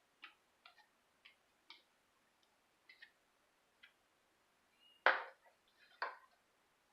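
A fork tapping and scraping against a casserole dish as stuffing is spread out: a run of light clicks, then two louder scrapes about a second apart near the end.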